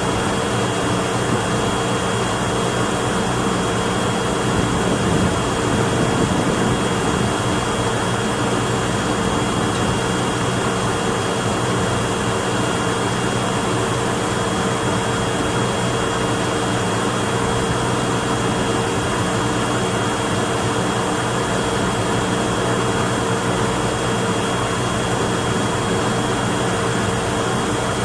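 Steady machine drone with a few steady tones held throughout, unchanging in level.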